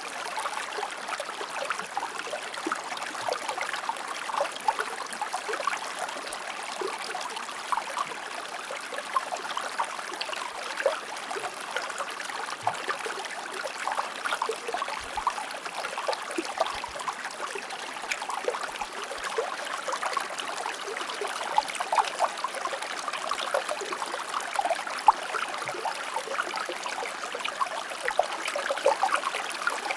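Shallow river or stream flowing steadily, with small bubbling and gurgling splashes over a constant rush of water.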